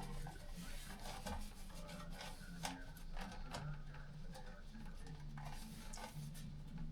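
Scattered light clicks, taps and rubbing from hands and tools working on an indoor air-conditioning unit, over a low hum.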